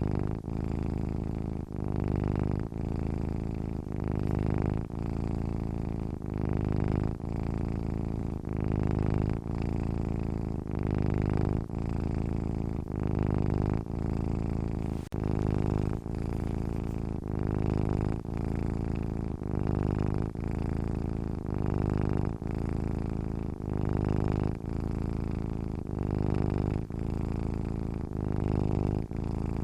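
A domestic cat purring while asleep, a steady low purr that pulses evenly about once a second.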